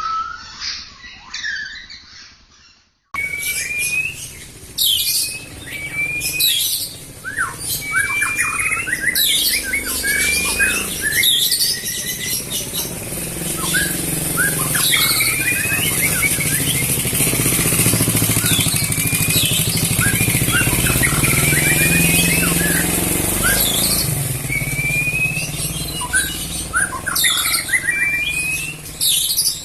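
A songbird singing: short rising whistled notes repeated every second or so, mixed with quick chirps, starting about three seconds in after the previous recording fades out. A low rumble runs underneath through the middle.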